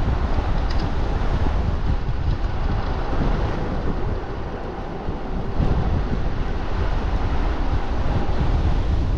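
Wind rushing over the microphone of a moving e-bike, a steady low buffeting that eases briefly about four to five seconds in.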